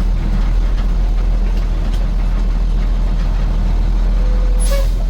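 Heavy truck's DT466 turbo-diesel engine running steadily at idle, with a brief sharp high-pitched sound near the end.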